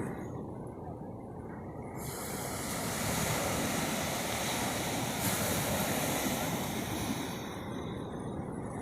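Ocean surf: a steady wash of waves with a low rumble, one wave surging in about two seconds in and falling away near the end.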